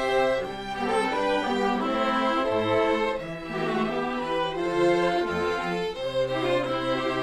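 String ensemble playing: violins and cellos holding sustained notes that change every second or so over a moving bass line.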